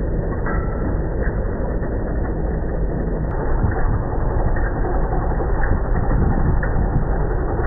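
Tractor engine running steadily, slightly louder from about halfway through.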